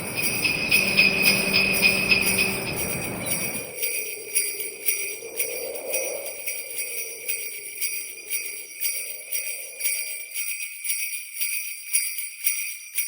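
Sleigh bells jingling in a steady shaken rhythm. A lower, fuller layer of sound beneath them stops about four seconds in, and a faint wavering tone fades out near ten seconds.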